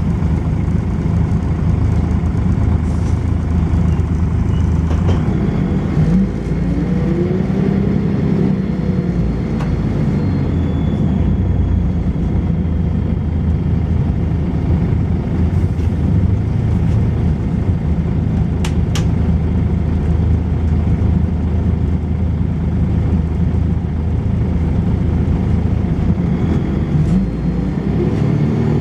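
Volvo B10BLE bus engine running steadily. Its note rises and falls from about six seconds in and again near the end, as it works through acceleration.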